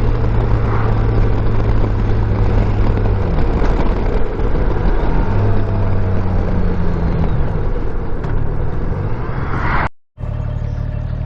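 2015 Honda Gold Wing F6B's flat-six engine running under way, with wind and road rush. The engine note drops and then rises again as speed changes. The sound cuts out for a moment near the end.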